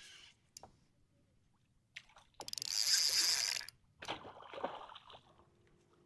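Water splashing and sloshing beside a kayak: a loud splash lasting about a second midway, followed by a softer stretch of sloshing.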